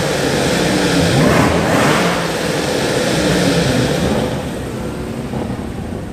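A car engine revving loudly, its pitch rising and falling over the first couple of seconds, then settling lower and a little quieter near the end.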